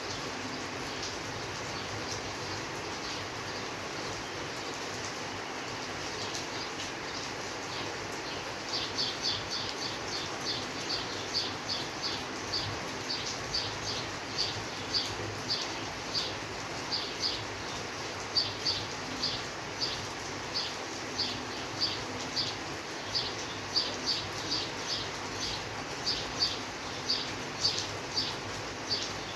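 Steady rainfall hiss. About nine seconds in, a small animal's high, short chirp joins it and repeats about twice a second.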